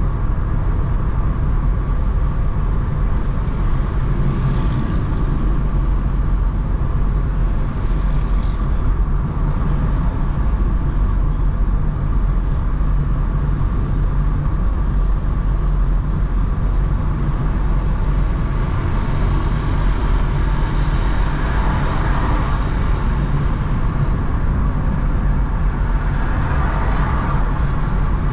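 Steady low rumble of a car driving in city traffic, engine and tyre noise together, with a couple of brief swells as other vehicles pass in the second half.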